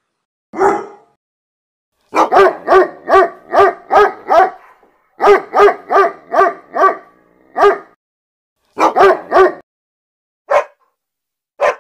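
Dog barking in quick runs of about three barks a second, with short pauses between runs and single barks near the end.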